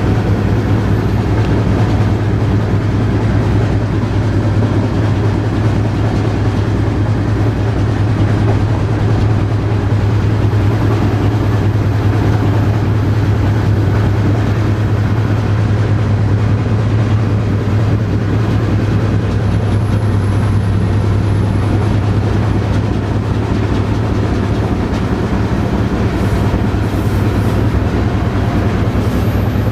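Moving freight train heard from aboard a car: a loud, steady rumble of wheels on rail and the rattling car body, with a constant low hum throughout.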